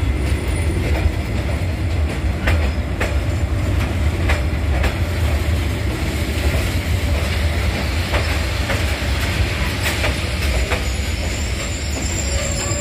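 Train running on rails: a steady low rumble with irregular clacks as the wheels pass over rail joints. High-pitched wheel squeal starts to come in near the end.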